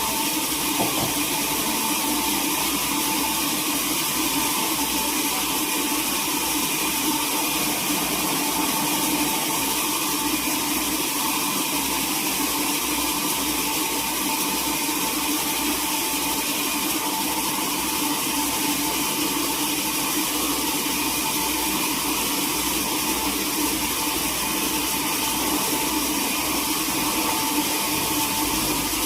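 Sawmill machinery running steadily, a constant mechanical noise with a steady hum.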